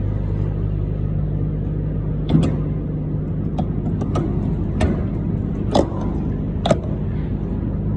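Truck engine running at a steady speed with a low, even drone, and several sharp knocks or rattles, about one a second, from about two seconds in.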